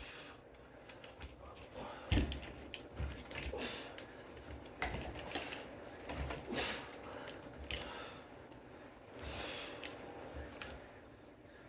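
A person breathing hard while doing reverse crunches, with a noisy exhale every one to three seconds. Dull thumps and creaks of movement come between the breaths, the loudest a thump about two seconds in.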